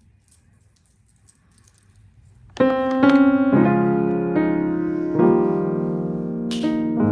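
Soft piano music: after a faint, nearly quiet start, held piano notes come in about two and a half seconds in and change every second or so. A brief hiss sounds near the end.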